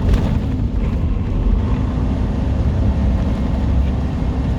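Inside the cab of a semi truck on the move: the diesel engine's steady low drone, mixed with road noise.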